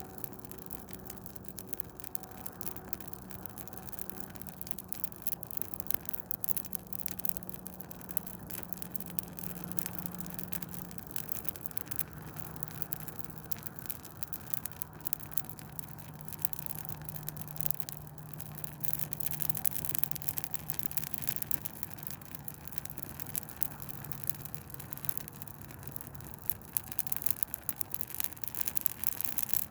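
Douglas fir Christmas tree burning, crackling with a dense, rapid stream of small snaps and pops.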